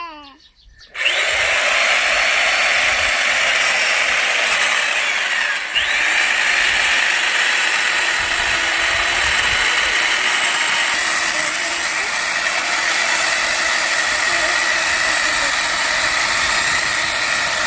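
Angle grinder converted into an electric chainsaw with a chainsaw-bar kit, starting up about a second in and running steadily while it saws into wood, with a brief dip in sound near six seconds.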